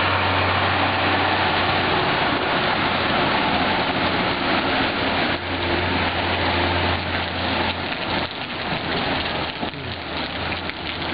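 Steady hiss of rain and running floodwater, with the low engine rumble of a box truck driving through the flood that fades away after about eight seconds.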